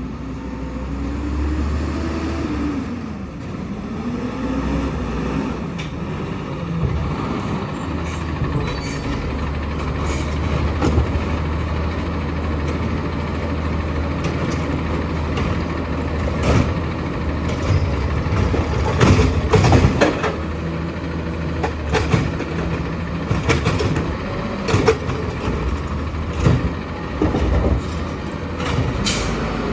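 Garbage truck's diesel engine running, with a whine that rises and falls in the first few seconds. From about ten seconds in come repeated metal clanks and knocks, heaviest around twenty seconds in.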